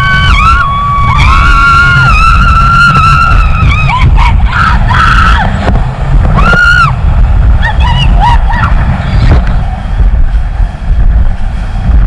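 A boat's outboard engine at full throttle at speed, buried under heavy wind rumble on the microphone. A pitched melodic line, singing-like, runs over it until about seven seconds in, then fades.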